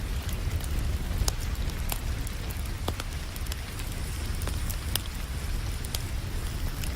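Wood fire crackling, sharp pops and snaps at irregular moments, over the steady hiss of falling rain with a low, continuous rumble underneath.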